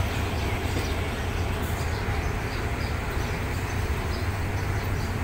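Train of passenger coaches rolling slowly past the platform: a steady low rumble of wheels on the rails.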